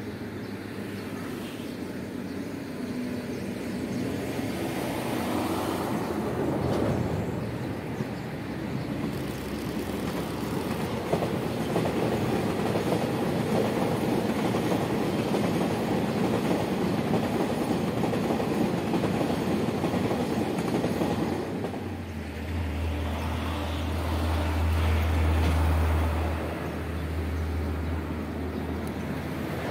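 TRA EMU3000 electric multiple unit passing on the line. Its running noise builds from about four seconds in, holds steady while the train goes by, and eases off after about twenty seconds. A deep low rumble follows for a few seconds near the end.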